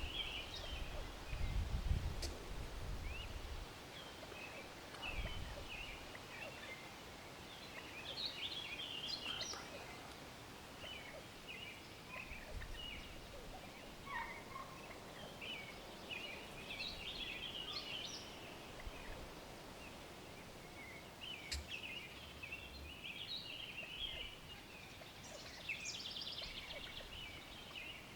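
Wild turkeys gobbling and calling again and again, with a rattling gobble near the end. A low rumble on the microphone about a second in.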